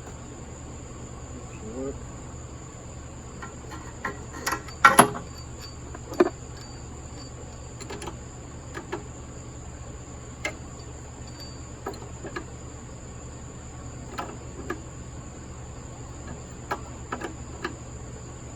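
Scattered clinks and knocks of hand tools and metal fittings being handled, the loudest a quick run of knocks about five seconds in and another about a second later, over a steady high-pitched trill.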